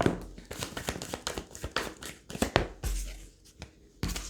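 Tarot cards being shuffled and handled: a quick run of soft card clicks and rustles that thins out after about three seconds.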